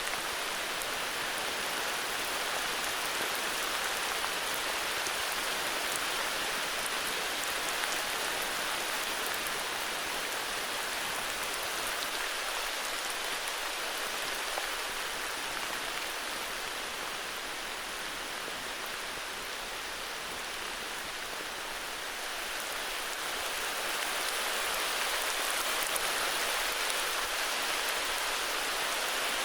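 Steady heavy rain falling, a dense hiss of drops with faint individual patters, easing a little in the middle and building again near the end.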